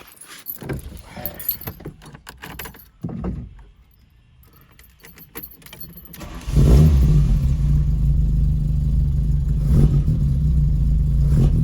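Knocks and a rattle of keys as the driver gets in, then about six and a half seconds in the 1975 VW Scirocco's carbureted engine starts from cold, with no choke, and runs at a steady idle that is a little rough at first.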